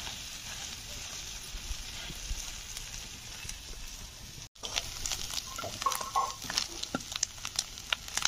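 Fish roe sizzling steadily in a hot iron kadhai over a wood fire. About halfway through, a metal spatula starts scraping and tapping against the pan in quick, sharp strokes.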